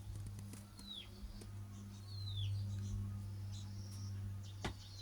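A steady low hum, with two brief downward-sliding bird chirps about a second and a half apart, a few faint ticks, and a sharp click near the end.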